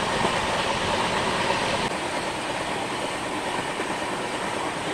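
Running noise of the Shramjeevi Express passenger train on the move: a steady din of wheels on rails, which drops abruptly in level about two seconds in.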